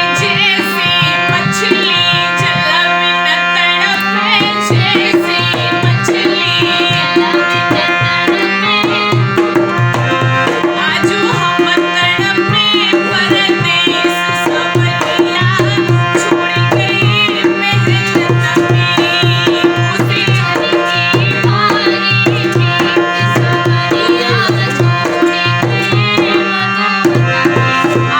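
Indian music with a steady tabla-style drum beat under sustained drone tones and a wavering, heavily ornamented melodic line.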